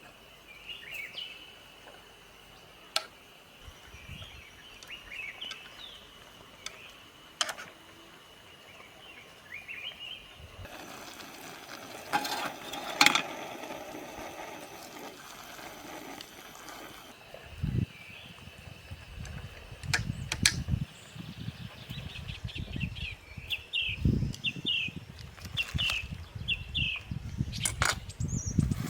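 Small birds chirping in short repeated notes, over sharp clicks now and then. A stretch of steady hiss runs through the middle, and in the second half comes a run of low knocks and thuds.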